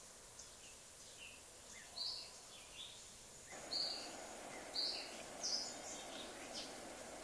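Birds chirping in short, high calls a few times over a steady outdoor hiss. The hiss steps up suddenly about halfway through.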